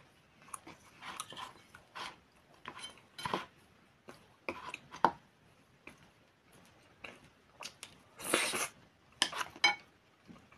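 Close-up mouth sounds of someone chewing boiled pelmeni dumplings, in short scattered bursts, with light clicks and knocks from a spoon on the plate. One louder noisy sound lasting about half a second comes about eight seconds in.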